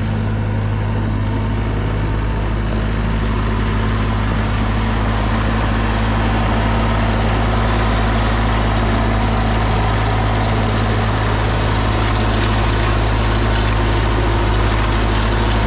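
Snowblower engine running steadily, a constant low hum.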